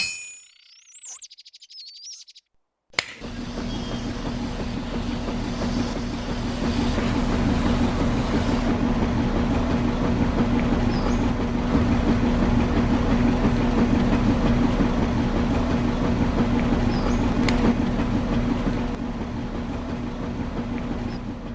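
Brief bird chirps, then from about three seconds in a motor starts and runs steadily with a constant hum and fast low rattle.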